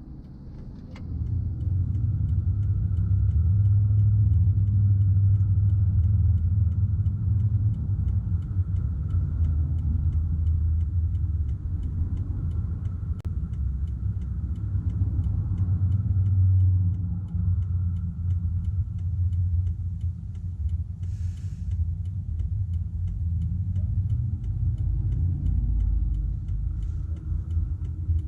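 Steady low rumble of a car driving along the road, coming up about a second in. A faint, regular ticking runs underneath, and a short hiss comes about three-quarters of the way through.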